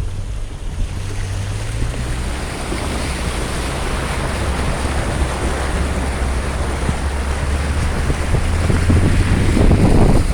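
Heavy rain pouring steadily, with wind buffeting the microphone as a low rumble; it grows a little louder toward the end.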